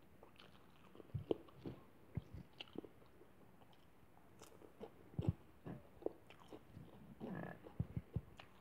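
Close mouth sounds of a person chewing a handful of rice and chicken: irregular wet smacks and clicks.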